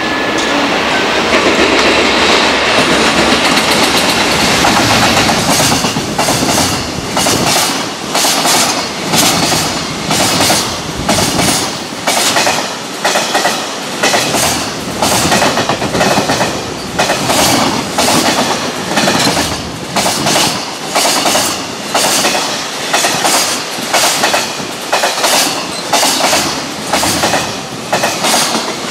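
JR Freight EF210 electric locomotive passing close, followed by a long container freight train's wagons rolling by, their wheels clacking over the rail joints in a steady rhythm of about one clatter a second.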